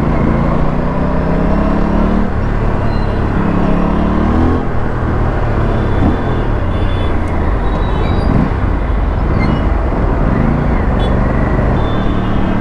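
Aprilia RS457 parallel-twin engine and exhaust accelerating, its pitch rising through two gears in the first five seconds, then running on under wind and traffic noise.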